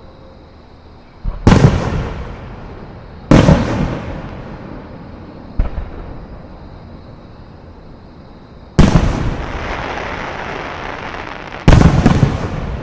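Aerial fireworks bursting: four loud booms and one fainter one a few seconds apart, each fading away slowly, the third followed by a long trailing rumble.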